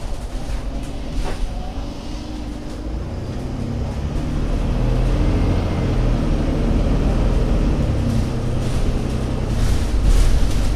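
Diesel engine of an Alexander Dennis Enviro500 MMC Euro 6 double-deck bus running under way. Its note rises and grows louder from about two seconds in as the bus accelerates, then holds steady.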